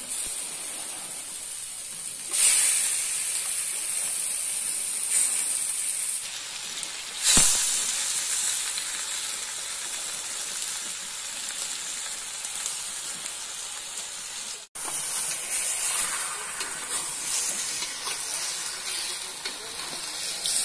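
Pieces of shark and stingray frying in a steel wok with oil and spice paste: a steady high sizzle that jumps louder about two seconds in as the fish goes into the hot oil. A single metal knock on the wok comes about seven seconds in, and the sound cuts out for an instant about two-thirds of the way through.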